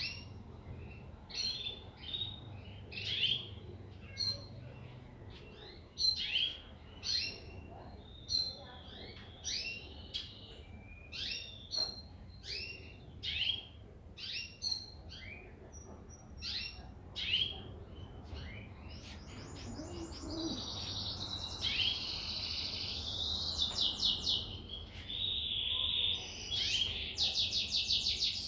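Songbird calling: a string of short, falling chirps about once a second, giving way about two-thirds through to faster, denser trilled notes.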